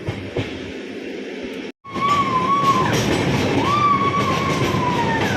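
Train running on its track, a steady rumble that drops out at a sudden cut about two seconds in and comes back louder. Over it a high squeal of the wheels rises, holds and falls away twice.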